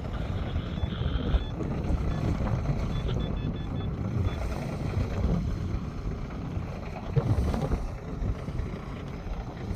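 Steady low rumble of boat engines and wind on the microphone, with a few short high electronic beeps about a second in and a quick run of them around three seconds in.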